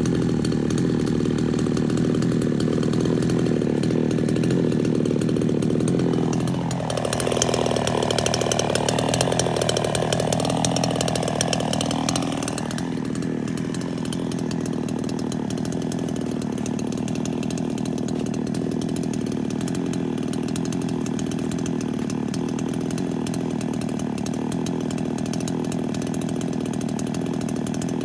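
Two-stroke chainsaw running steadily. For about six seconds near the middle its engine note drops under load, as in a cut, with a harsher high-pitched rasp, then rises back to a steady run.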